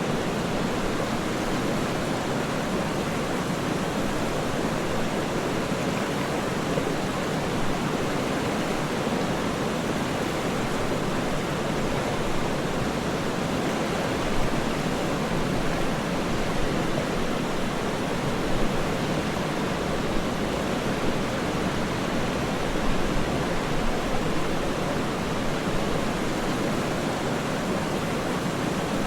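Waterfall: a steady, even rush of falling water, with a few slightly louder splashes about halfway through.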